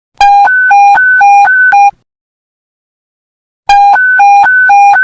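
Police panic button alert: an electronic two-tone beep that switches rapidly between a low and a high tone, about seven tones per burst. It sounds in two bursts with a silent gap of nearly two seconds between them.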